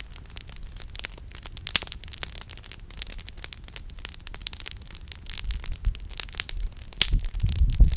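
Wood campfire crackling and popping with many small snaps, and sharper pops about two seconds in and again about seven seconds in. A low rumble rises near the end.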